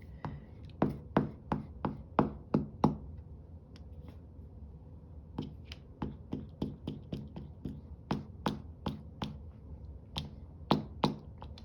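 Repeated sharp taps of something being dabbed onto paper on a tabletop, in three runs of quick strikes, about three to four a second, as colour is bashed onto a page.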